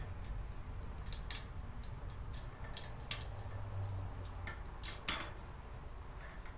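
A few sharp clicks and clinks of storage-cart parts and hardware being handled during assembly, spaced a second or two apart, with two close together near the end.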